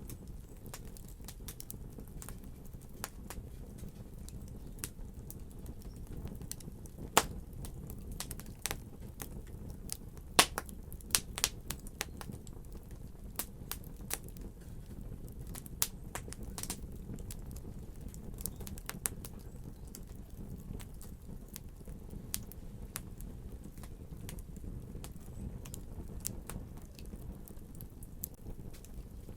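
Fire crackling: a steady low rumble of burning, with irregular sharp pops and snaps, thickest in the middle stretch and loudest about 7 and 10 seconds in.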